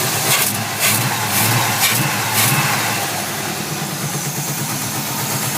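350 V8 breathing through long tube headers, blipped about five times in quick succession over the first couple of seconds, then settling back to a steady idle.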